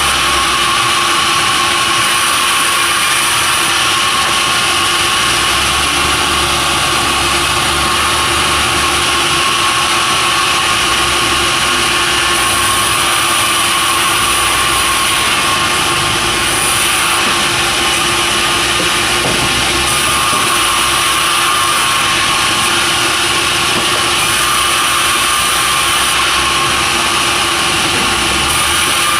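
Sawmill machinery running steadily and loudly, engine and saw going together, with a high hiss that comes and goes every few seconds.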